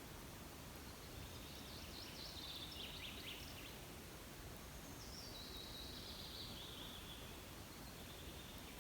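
A small songbird singing two high phrases that fall in pitch, one about a second in and one about five seconds in, with a fainter third phrase near the end. Under it runs a faint steady hiss of outdoor background noise.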